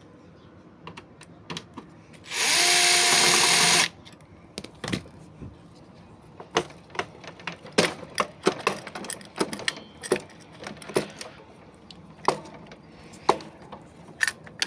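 A power drill runs once for about a second and a half, then a string of sharp clicks and knocks as tools and metal parts are handled.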